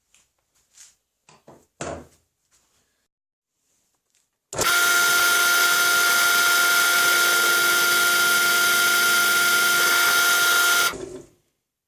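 Electric drill running at a steady speed for about six seconds, then switched off, after a few light clicks of parts being handled.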